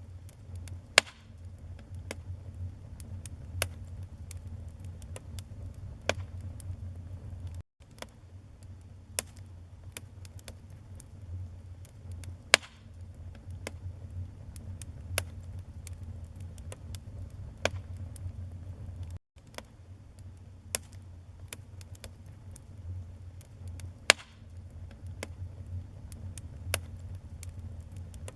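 Wood fire in a fireplace crackling: irregular sharp pops and snaps from the burning logs, a few much louder than the rest, over a low steady rumble. The sound cuts out completely for an instant twice.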